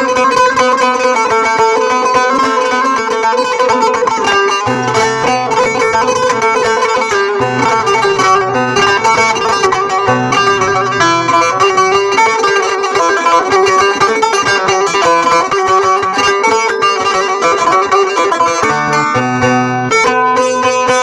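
Bağlama (Turkish long-necked saz) playing an improvised folk tune: a continuous stream of quick plucked notes.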